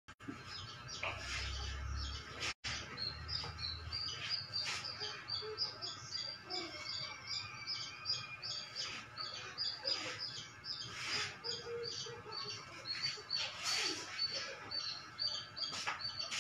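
Small birds chirping in short, high notes a few times a second, with occasional light knocks.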